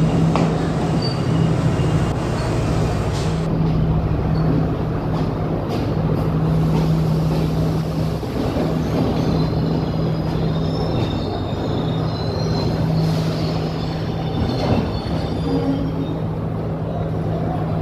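Diesel train running with a steady low hum, with faint high-pitched tones coming and going in the second half.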